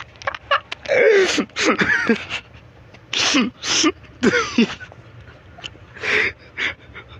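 A man laughing hard in a string of breathy bursts, each sliding down in pitch.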